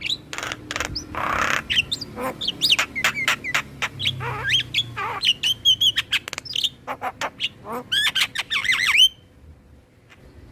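Javan myna chattering song: a fast jumble of whistles that slide up and down, sharp clicks and a harsh rasp, ending in a quick run of whistled notes and then breaking off about nine seconds in.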